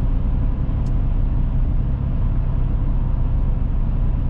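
Steady low engine and road rumble inside the cab of a Chevrolet Silverado pickup cruising along.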